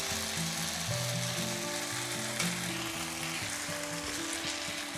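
Sauced chicken and julienned vegetables sizzling steadily as they stir-fry in a hot pan, stirred with a plastic slotted spatula.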